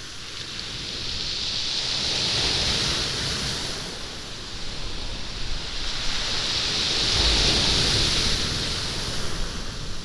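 Waves washing up a stony beach, the stones rolling and rattling in the backwash, in two surges about five seconds apart. Recorded binaurally.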